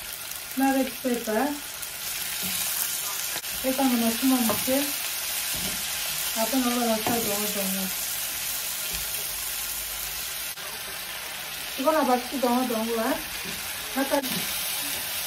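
Onions and chopped tomatoes sizzling in a frying pan while being stirred with a wooden spoon; near the end cut okra is tipped into the pan. A few short pitched sounds break in over the sizzling, about four times.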